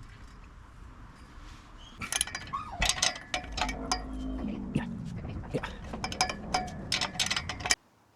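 Hand tools and bolts clinking and knocking on metal, irregularly and with some ringing, as work is done on the exhaust flange bolts. Before it, a low steady hum. It cuts off abruptly near the end.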